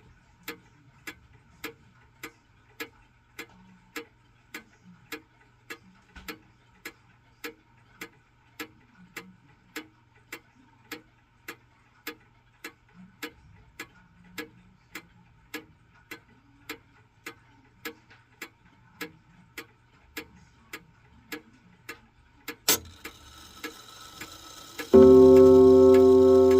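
Gustav Becker pendulum clock ticking evenly, a little under two ticks a second. Near the end a sharp click releases the strike train, which whirrs briefly before the Gloria gong is struck twice, ringing with a deep, sustained chord.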